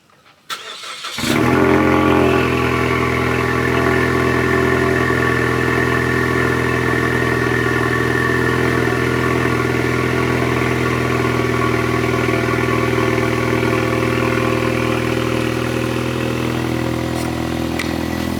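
Ford Mustang EcoBoost's 2.3-litre turbocharged four-cylinder cold-starting about a second in, after a short click. It then settles into a steady fast idle, easing off slightly near the end.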